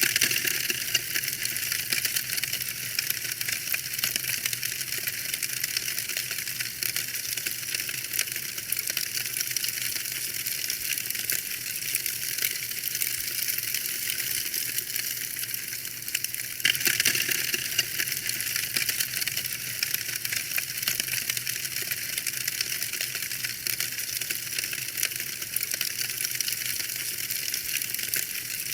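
Wood fire burning in a fireplace, crackling and popping continuously over a soft hiss, with a louder spell of crackles at the start and again about 17 seconds in.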